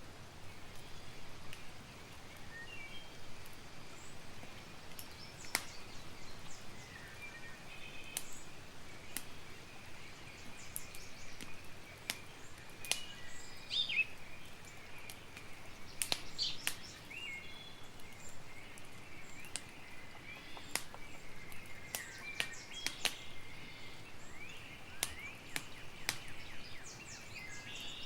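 Wood campfire crackling with scattered sharp pops, while birds chirp and call in the background.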